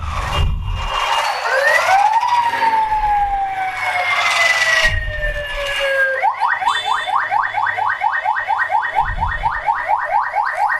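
Electronic siren sounding a slow wail that rises and then falls, switching about six seconds in to a fast yelp of about four rising sweeps a second.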